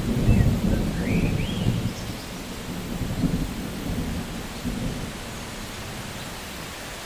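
Steady rain with rolling thunder rumbling low, heaviest in the first two seconds and then easing off. A few faint rising chirps sound early on.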